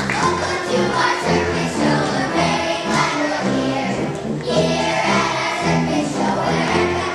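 A group of young children singing a song in chorus over an instrumental accompaniment.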